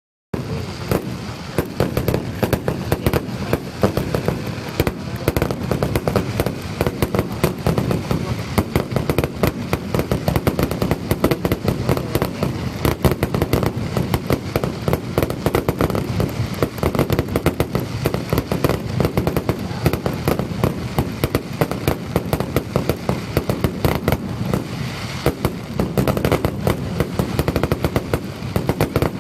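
Fireworks finale barrage: a dense, continuous run of rapid bangs and crackles that never lets up.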